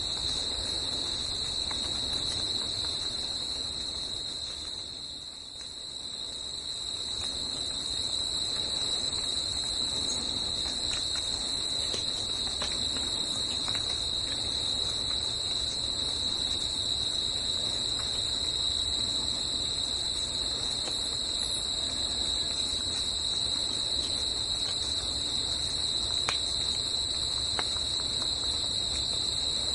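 Forest ambience: a steady, high-pitched chorus of insects singing without a break, over a soft even rushing background that dips briefly about five seconds in.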